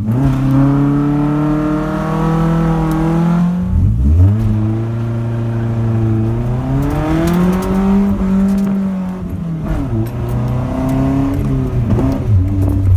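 1989 Nissan 240SX's engine revving hard through a Flowtech Red Hot glasspack muffler during skids, the pitch climbing and then dropping sharply several times as the throttle comes on and off: drops about four seconds in, again near ten seconds, and near the end.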